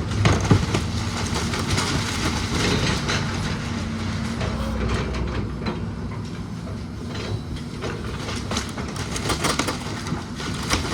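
A machine engine running steadily under frequent cracking and clattering, like timber and debris breaking apart in demolition.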